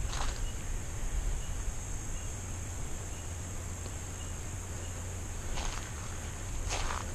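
Steady high-pitched insect chorus, typical of crickets or katydids, with a few crunching footsteps on dry ground or leaves near the start and near the end.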